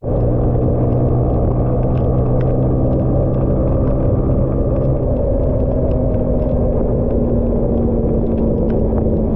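Motorbike riding through heavy rain: a loud, dense rush of wind and rain on the microphone with the engine's steady hum underneath. One low engine note drops away about five seconds in while a higher note carries on.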